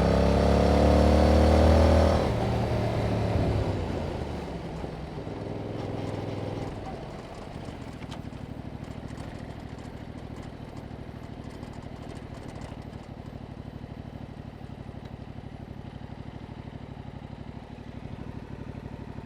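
2021 Yamaha MT-07's 689 cc parallel-twin engine through its stock exhaust, pulling with rising revs for about two seconds, then rolling off the throttle and winding down. It settles into a steady, quieter idle for the rest of the time.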